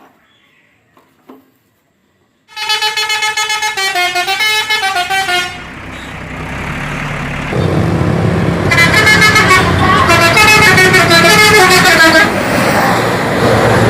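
A bus's musical multi-tone horn plays a wavering tune for about three seconds. A low engine rumble then comes in, and the horn plays a second tune over it for about three and a half seconds.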